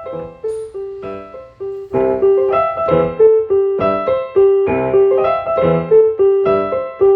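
Background piano music: a repeating pattern of struck chords and notes, each fading away, growing louder about two seconds in.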